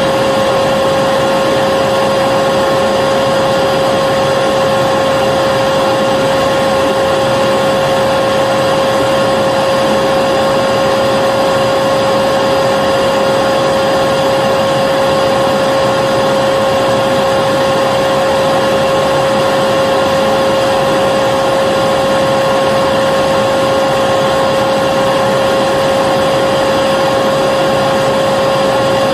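Vacuum cleaner running steadily, a constant motor whine with a strong steady tone over a rush of air, unchanging throughout.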